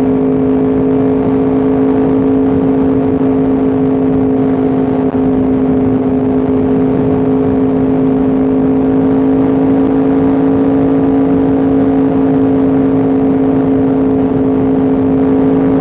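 Yamaha R1M's crossplane inline-four engine running steadily under way, its pitch holding nearly level and creeping up slightly.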